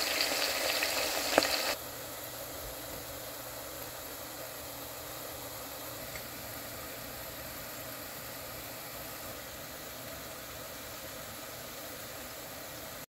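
Sliced onions deep-frying in hot oil in a pot, a steady sizzle as they brown toward crisp. It drops to a quieter level about two seconds in and stays even after that.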